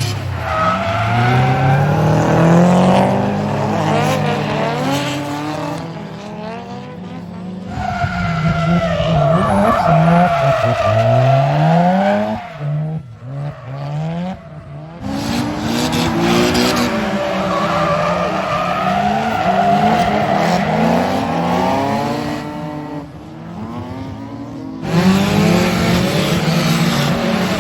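Drift cars sliding at the limit: engines revving hard up and down as the drivers work the throttle, over a steady squeal of spinning tyres. The sound changes abruptly a few times, with a short dip near the middle, as one run gives way to the next.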